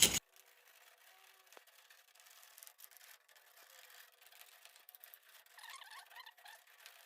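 A nail in a wooden block scraping mortar out of the joints between bricks, cut off almost at once; then near silence with faint scratching.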